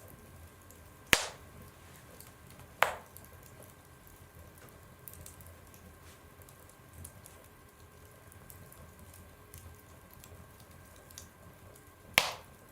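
Wood fire burning in a stove, crackling softly with three loud sharp pops: two close together about a second and three seconds in, and one near the end.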